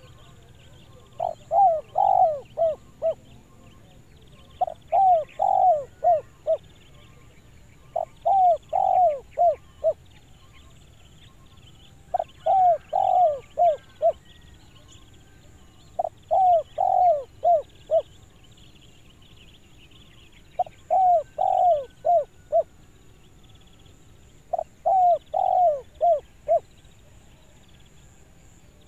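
Spotted dove (tekukur) cooing its clear 'kuk dua' call: seven repeated phrases of about five notes each, one roughly every four seconds.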